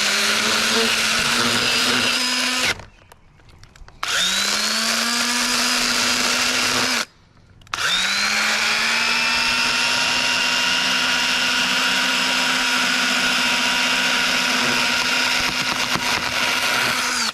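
Echo battery-powered electric pruning saw cutting through a limb in three runs, each starting with a short rising whine as the motor spins up and then holding a steady whine, with brief pauses between.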